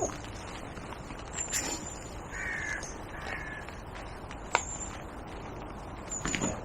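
A bird calling twice with short, pitched calls a little under halfway through, over steady outdoor background noise, with a couple of sharp knocks.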